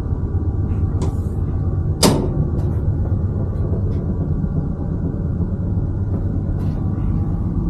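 Class 221 Super Voyager diesel train running steadily, heard inside the carriage as a low hum from its underfloor diesel engine. There is a sharp knock about two seconds in and a few faint clicks.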